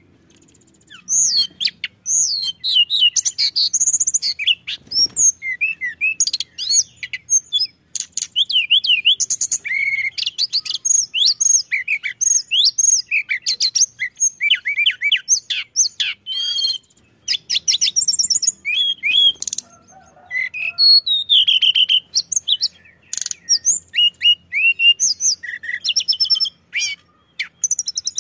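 Tledekan gunung songbird singing vigorously: a rapid, unbroken stream of varied high chirps, quick whistled sweeps and trills, after a brief pause at the start.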